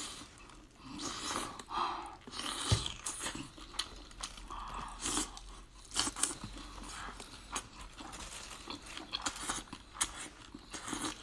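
A person biting chili-coated skewered food off the stick and chewing a full mouthful, with irregular wet smacks and clicks.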